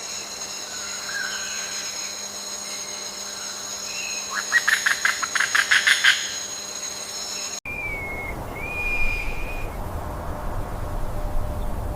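Outdoor wildlife sound: a steady high-pitched whine with a rapid run of about a dozen sharp chirps about four seconds in. After a cut near eight seconds, two short whistled calls follow.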